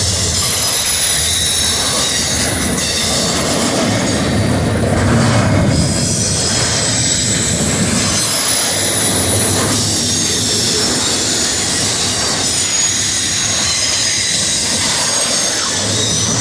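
Freight train rolling past, its wheels squealing in thin, high tones that come and go over the steady rumble of the cars.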